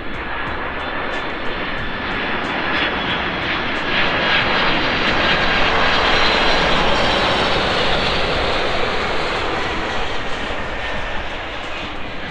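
Boeing 747 Dreamlifter's four jet engines on landing approach, passing low and close. The jet noise swells to a peak about halfway through and then fades, with a steady engine whine above the rush.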